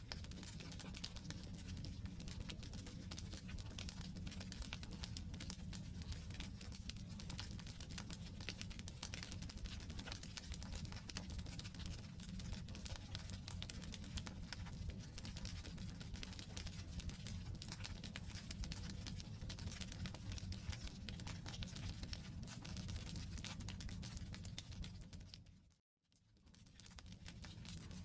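Wood campfire burning: dense, fine crackling and popping over a low steady rumble. Near the end it cuts out for a moment and fades back in.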